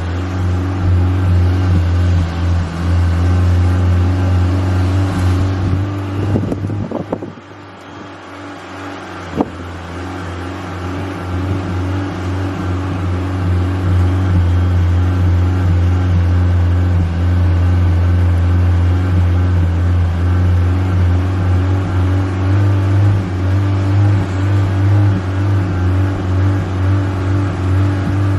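Honda Civic engine held at steady revs under the throttle. About seven seconds in it drops off, a sharp click comes about two seconds later, and the engine then climbs back up over a few seconds and holds steady again.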